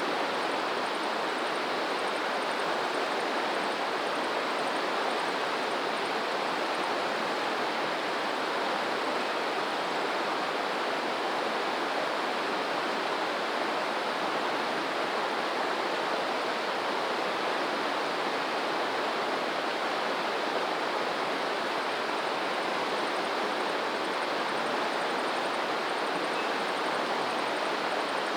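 Flowing water rushing steadily, a stream or small waterfall, with no swell or break in it. A faint, high, rapid ticking comes and goes near the start and again near the end.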